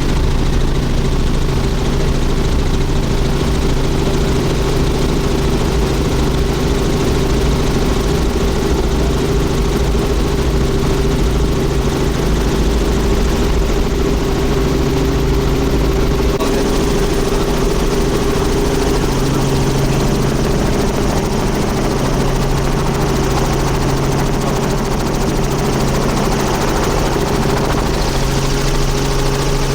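Tour helicopter's engine and rotor running steadily in flight, a loud continuous drone with a low hum, heard from inside the cabin. The deepest rumble eases slightly about halfway through.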